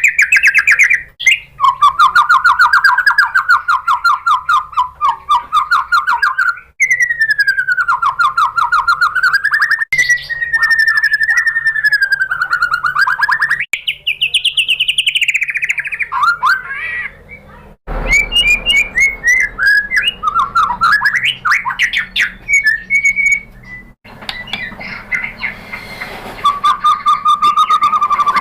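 White-rumped shama (murai batu) singing: fast rattling trills and sweeping whistled phrases, the song changing abruptly from one phrase to the next several times.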